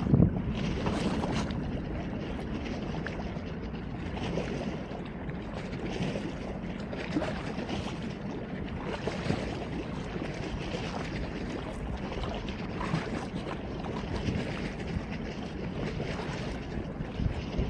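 Wind blowing on a phone's microphone: a steady low rush with small gusts.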